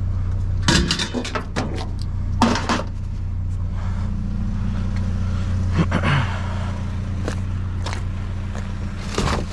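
Vehicle engine idling steadily, with a few sharp knocks and clatters of objects being handled, the loudest about two and a half seconds in.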